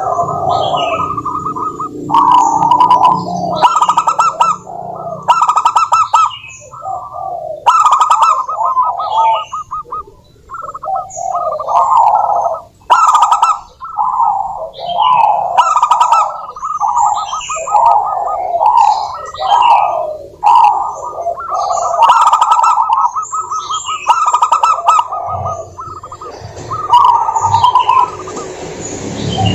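Zebra doves (perkutut) cooing in rapid, stuttering phrases, one bout after another with short pauses, with fainter higher chirps over them.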